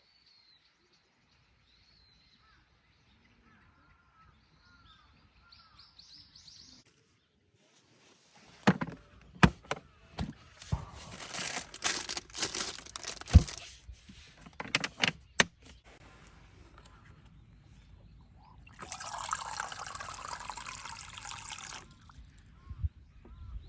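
Faint bird chirps, then a run of knocks, clicks and rustling, then about three seconds of liquid pouring steadily.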